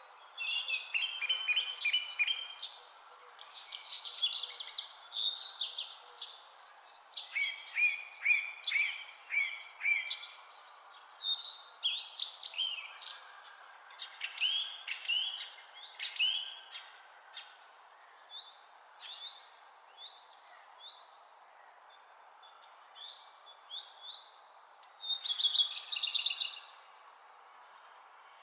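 Several birds singing and chirping at once, a dense chorus of short, sweeping high notes that thins out past the middle, with a quick burst of rapid repeated notes near the end, over a faint steady hiss.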